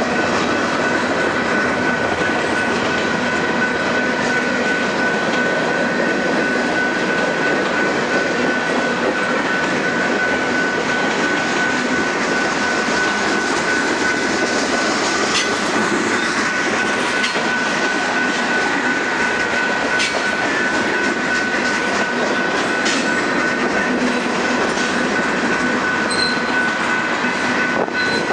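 Freight train cars rolling past, steel wheels running steadily on the rails, with a steady high-pitched tone over the rumble and a few sharp clicks.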